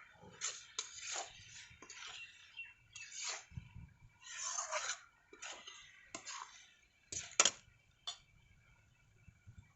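A metal utensil scraping and knocking against a cooking pot in irregular strokes, with one sharper knock about seven seconds in.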